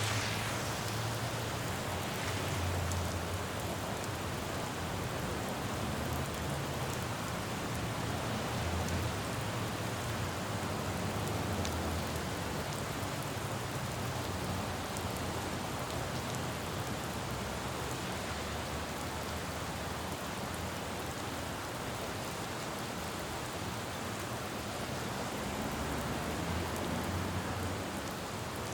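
Steady rain falling on a city road, with a low rumble of traffic that swells and fades.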